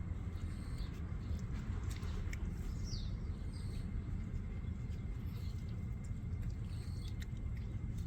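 Steady low rumble of outdoor background with a few faint, short high chirps and small clicks.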